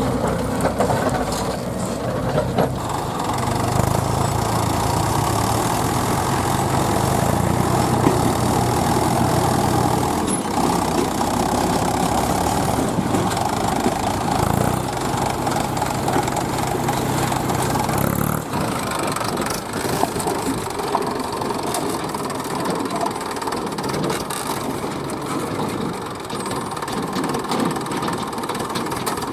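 Diesel engine of heavy farm or earthmoving machinery running steadily. Its note changes about ten seconds in, and its low hum largely drops away after about eighteen seconds.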